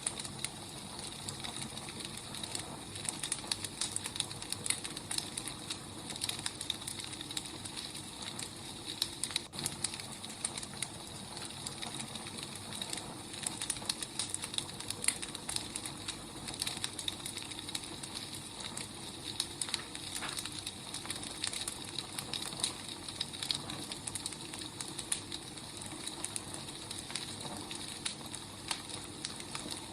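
Wood fire burning with a steady hiss and frequent sharp crackles and pops of the burning logs.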